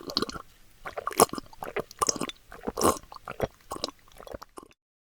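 A person biting and chewing crunchy food: a run of irregular wet crunches that cuts off abruptly near the end.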